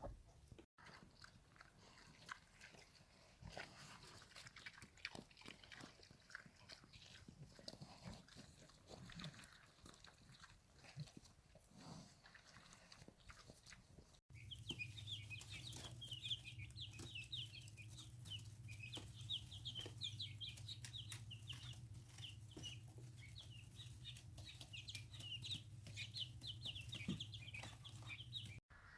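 Young poultry chicks peeping: faint and scattered at first, then, after a cut about halfway through, a dense run of rapid high peeps over a steady low hum.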